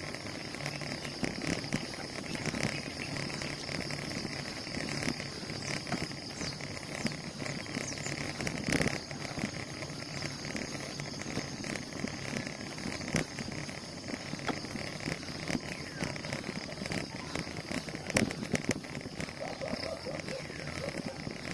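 Outdoor ambience during a bicycle ride: a steady high insect drone over wind and rolling noise, with scattered clicks and rattles.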